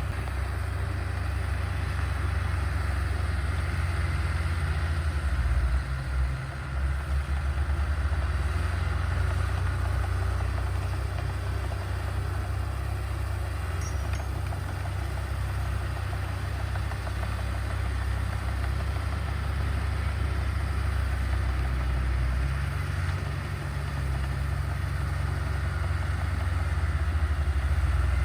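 Diesel engines of heavy earthmoving machinery running steadily with a deep low rumble. The engine note dips briefly about six seconds in and again a little after twenty-two seconds.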